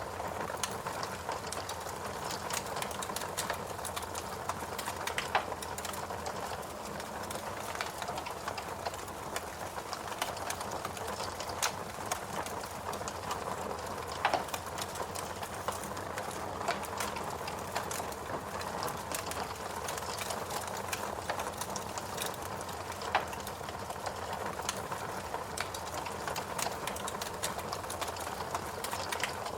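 Wood fire crackling in a fireplace: a dense patter of small crackles over a steady soft hiss, with a few louder sharp pops scattered through.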